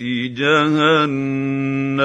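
A man chanting Quranic Arabic in melodic tajweed recitation. His voice wavers in pitch for a moment, then holds one long steady note.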